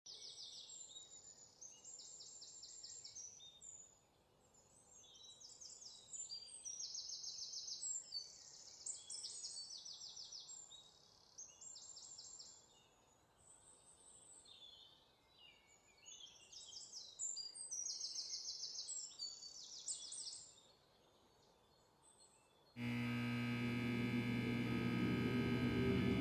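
Birds singing: short bursts of fast, high trills and chirps with pauses between them, over a faint outdoor hiss. Near the end, music cuts in suddenly with a low held drone and sustained tones, louder than the birdsong.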